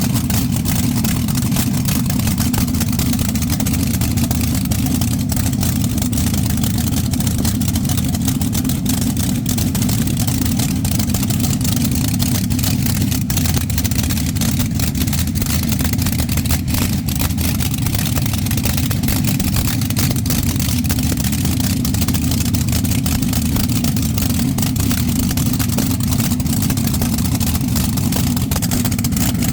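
Twin Chrysler 392 Hemi V8 engines idling steadily.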